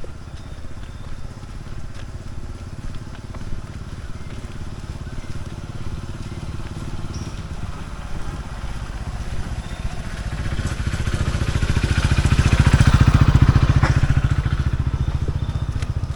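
A motorcycle engine running nearby, a low pulsing rumble that grows louder toward a peak near the end and then eases off as it passes.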